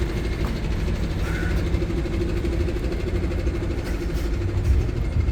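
Truck engine running with a steady low drone and a held tone.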